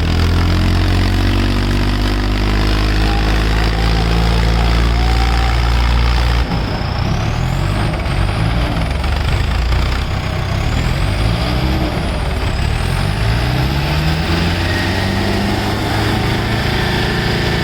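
Diesel tractor engines running hard under heavy load, pulling against each other in a tug-of-war. About six seconds in, the deep low drumming drops away, and the engine note then climbs as the engine revs up.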